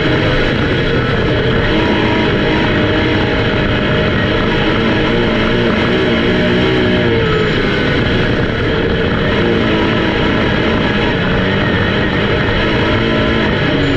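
Rock music with guitar, mixed with the steady running of race car engines on a track, their pitch rising and falling.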